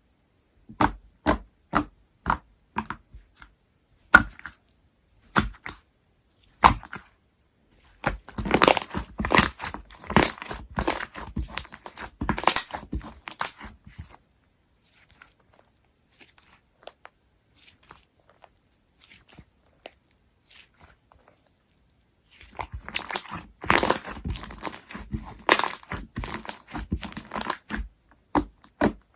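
Slime being worked by hand, making sharp, wet clicking pops and crackles. It starts with separate pops, then turns into dense crackling twice, about a third of the way in and again near the end, with only faint scattered clicks in between.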